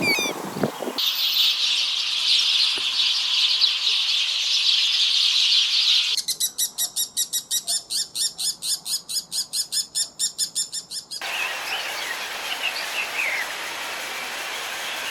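Bird calls in a run of short clips: a dense chorus of high chirping, then a fast, even trill of about six pulses a second for several seconds, then scattered chirps.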